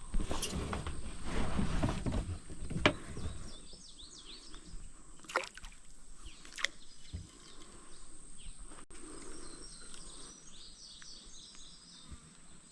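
Water sloshing and knocking against a kayak hull for the first few seconds, then a quieter stretch with a few sharp clicks and faint bird chirps.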